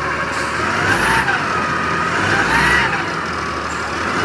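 Wheel loader's heavy diesel engine running, with a whine that rises and falls twice and short bursts of hiss.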